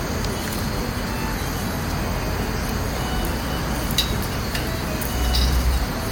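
Wood fire of twigs and pine cones burning in a small round wood stove: a steady low rush with a few sharp crackles about four seconds in, and a short, louder low surge near the end.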